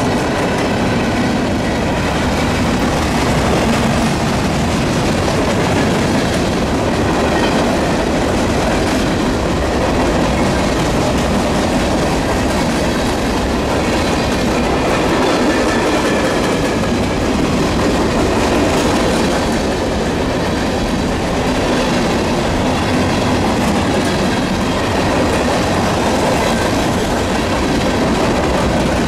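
Railroad cars rolling past with a steady, unbroken noise of steel wheels on the rails.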